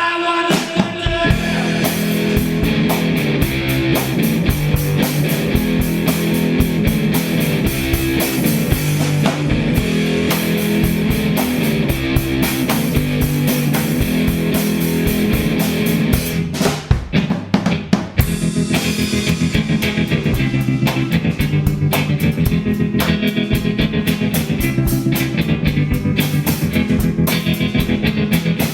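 Rock band playing: electric guitar, bass and drum kit. About two thirds of the way through, the band breaks into short stop-start hits, then comes back in with busier drumming.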